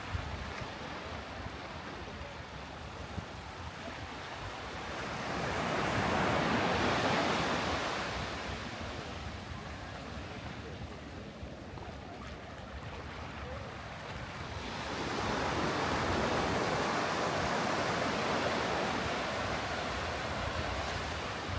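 Sea surf: waves breaking and washing up the beach in two swells about ten seconds apart, over a steady wash, with wind rumbling on the microphone.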